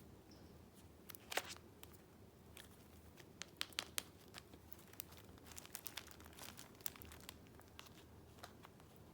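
Paper being handled close up: irregular crinkling and crackling with sharp little snaps, loudest just after a second in and again around three to four seconds.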